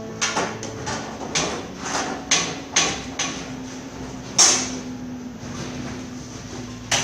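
Irregular hammer blows on metal during shutter repair work: about ten knocks in the first three and a half seconds, the loudest about four and a half seconds in, and one more near the end. A faint steady low hum runs under the second half.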